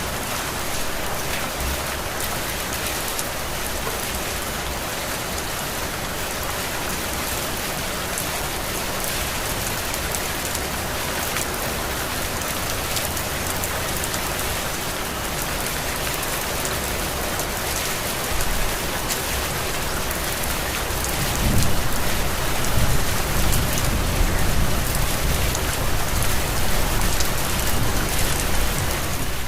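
Heavy rain falling steadily on surfaces, an even hiss. About two-thirds of the way through, a louder low rumble joins it and runs on to the end.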